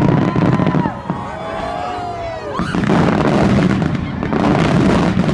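Aerial fireworks bursting in a dense barrage of booms and crackle, heaviest from about halfway through. Long whistle-like tones glide up and down over the first half.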